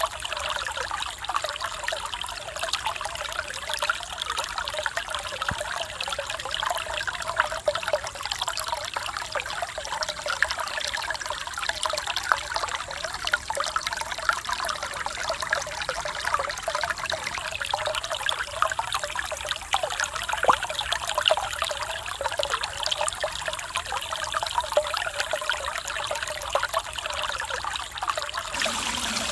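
Mountain valley stream babbling and trickling, a steady rush of water with small quick splashes. Near the end the sound grows slightly fuller and deeper.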